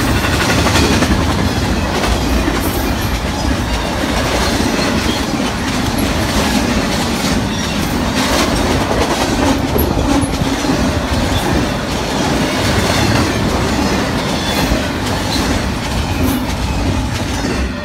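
Double-stack intermodal container train rolling past close by: a steady rumble of steel wheels on rail with a rapid clatter of clicks as the well cars pass, dropping away at the very end as the last car goes by.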